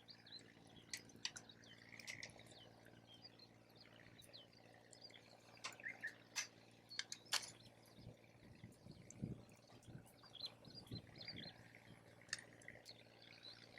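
Wood campfire crackling faintly, with scattered sharp pops, the loudest about seven seconds in. Faint bird chirps behind it, and a few low rumbles of wind gusts on the microphone about two-thirds of the way through.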